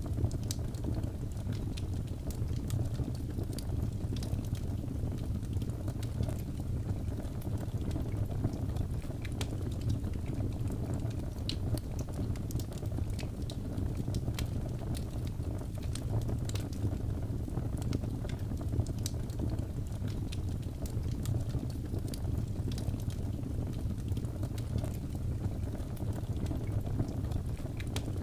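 Wood fire burning: a steady low rumble with frequent irregular crackles and pops.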